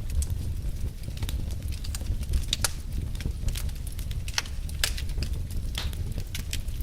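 Wood fire burning logs: irregular sharp crackles and pops, a few louder ones, over a steady low rumble.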